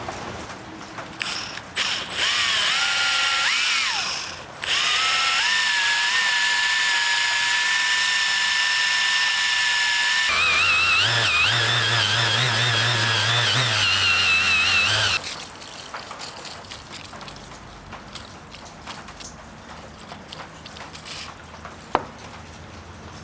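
A handheld electric power tool whines as it spins up about two seconds in, cuts out briefly, then runs at a steady pitch. About ten seconds in its pitch shifts higher and a low hum joins, and it stops about five seconds later. Light handling clicks follow, with one sharp tap near the end.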